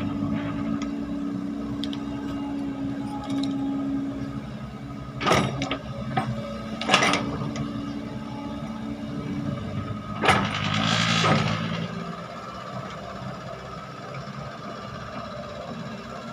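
Diesel engine of heavy earthmoving machinery running steadily, with three sharp knocks about five, seven and ten seconds in. A short rushing hiss follows the last knock.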